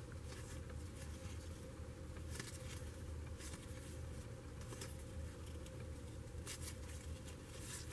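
Faint rustling of trading cards being handled and slid from one to the next, a few soft swishes over a low steady hum.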